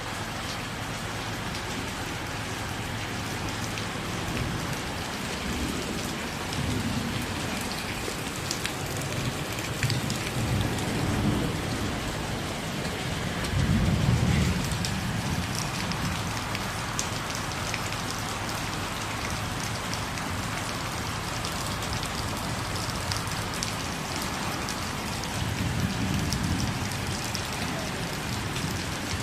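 Steady rain falling and pattering on surfaces, with fine drop ticks throughout. A few low rumbles swell and fade under it, the loudest about 14 seconds in.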